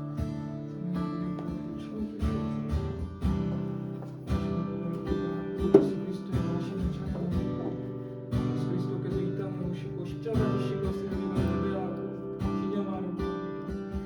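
Acoustic guitar strummed in steady chords, with one sharper, louder accent about six seconds in.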